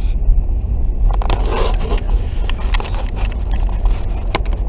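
Steady low rumble of a car driving on a snow-covered road, with irregular crackling and scraping from about a second in until near the end.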